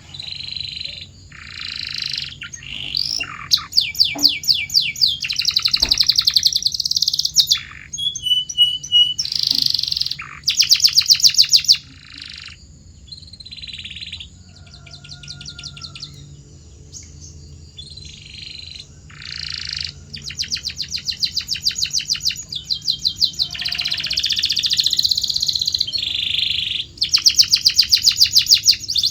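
Domestic canary singing a long song made of fast trills: phrases of rapidly repeated notes a second or two long, changing from one phrase to the next, with short pauses between them.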